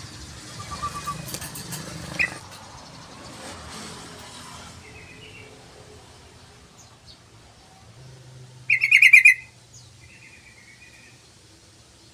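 Yellow-vented bulbul calling: one loud phrase of fast repeated notes lasting under a second, about three-quarters of the way through, with softer short calls a few seconds before and just after it.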